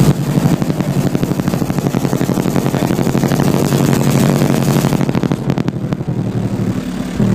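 A car audio system's subwoofers playing a loud, fast-pulsing bass at full power during a metered competition run.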